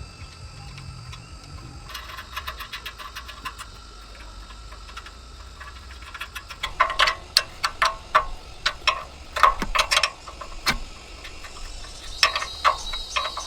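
Irregular sharp clicks and taps, rapid and faint at first, then louder and more widely spaced from about halfway through.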